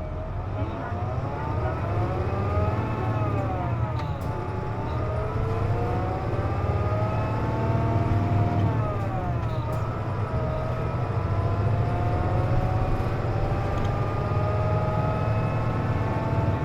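Interior of a KC-JP250NTN route bus under way: low engine rumble with a high whine of several tones over it that rises and falls with engine speed, climbing, dropping back twice and climbing again. The recordist ties this odd whine to the air conditioning running.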